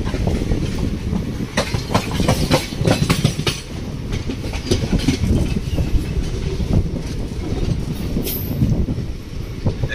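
Passenger train running on the track: a steady heavy rumble, with a run of sharp clicks from the wheels over rail joints about one and a half to three and a half seconds in.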